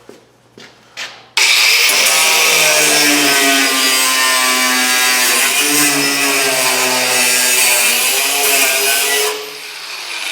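Power saw cutting through a steel body beam of a 1966 MG Midget, starting suddenly about a second in and running loud for about eight seconds with a wavering pitch, then stopping near the end.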